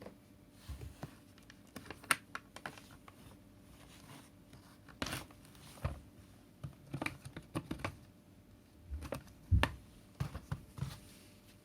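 Irregular plastic clicks, knocks and rubbing as parts of a cordless cyclone stick vacuum are handled, with a few sharper knocks about two seconds in and near the end.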